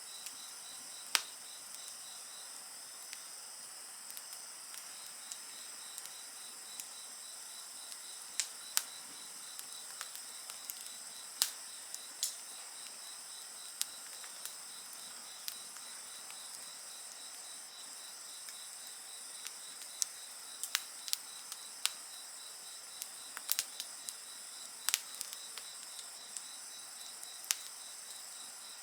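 Wood fire crackling with irregular sharp pops, over a steady chorus of insects chirring at several high pitches. The pops come at random, the loudest about a second in, near the middle and in a cluster about two-thirds through.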